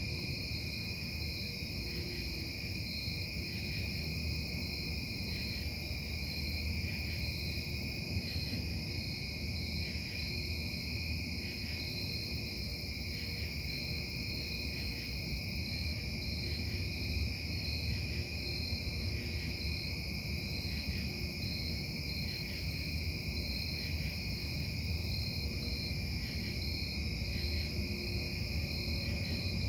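Industrial noise from the Casting Solutions plant: a steady low rumble with constant high-pitched tones running over it and no let-up.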